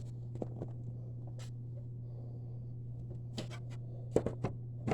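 Scattered light clicks and knocks of hands fitting a dust bag into a Hoover Preferred upright vacuum, with the loudest knock near the end, over a steady low hum. The vacuum's motor is not running.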